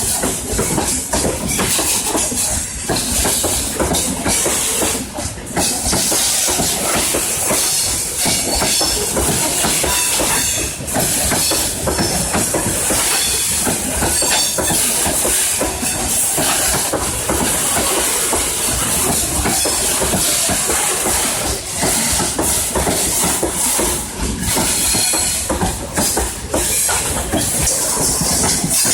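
Freight train running past close by: a loud, steady rolling noise of steel wheels on the rails, with scattered knocks.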